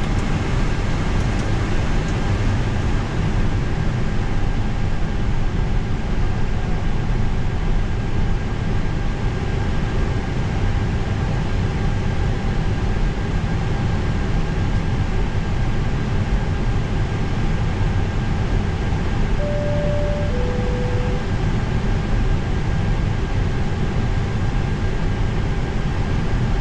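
Steady rumble and hum of an A321's IAE V2500 engines heard inside the flight deck during a crossbleed engine start, with a faint steady whine over it. About twenty seconds in, two short tones sound, the second lower than the first.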